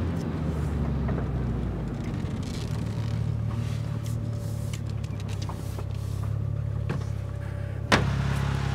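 Mitsubishi Lancer Evolution VI Tommy Mäkinen Edition's turbocharged four-cylinder engine running, heard from inside the cabin as a steady low hum. A single sharp click near the end.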